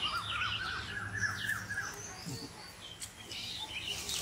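Birds chirping: a quick run of repeated chirps for about the first two seconds, with higher, scattered chirps later.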